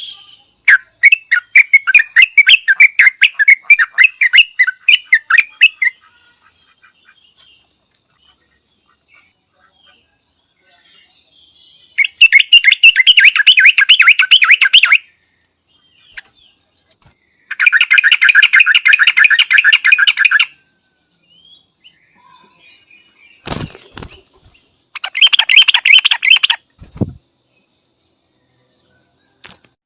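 Yellow-vented bulbul calling in four bursts of fast, bubbling repeated notes, separated by pauses of a few seconds. Two short low thumps come between the last bursts.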